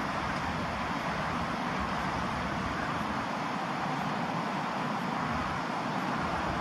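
Steady road-traffic noise, an even wash of sound with no single vehicle standing out.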